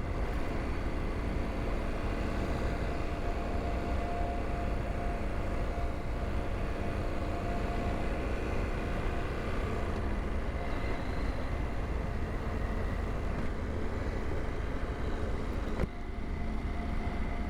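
2022 KTM 890 Adventure R's parallel-twin engine running at a steady cruise under heavy wind rush on the helmet microphone, with a brief dip in level near the end.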